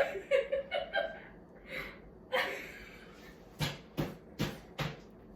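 Soft chuckling and breathy laughter, then four sharp knocks or taps in quick succession, about 0.4 s apart.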